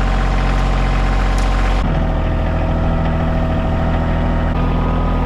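Kioti CK2610 compact tractor's diesel engine running steadily. Its sound changes abruptly about two seconds in.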